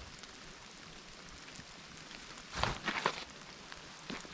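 Steady patter of rain, with a quick cluster of two or three short knocks a little past halfway.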